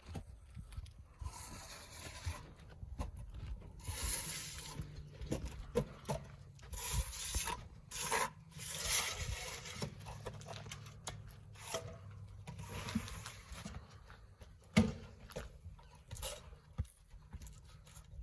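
Irregular scraping and rubbing sounds coming and going in spells, over a faint low hum, with one sharp knock about three-quarters of the way through.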